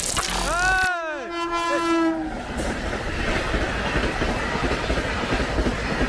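Train horn sounding, its pitch bending and then holding steady for about a second before it stops, followed by the steady rumble and wheel clatter of a train passing close by.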